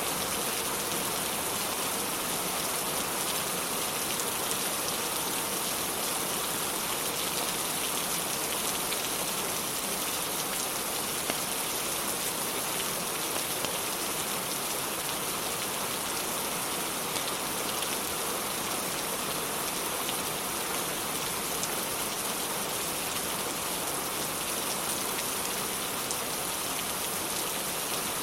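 Steady rain hissing without a break, with a few faint pops now and then from a crackling fireplace.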